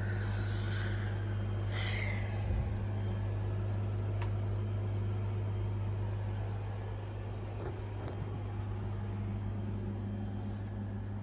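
A steady low mechanical hum, with a low thump about two and a half seconds in and a few faint clicks.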